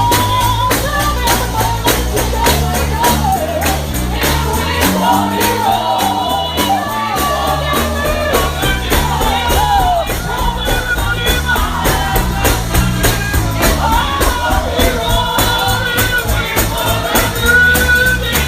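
Live gospel singing: voices carry the melody over a steady, rhythmic tambourine beat and a low accompaniment.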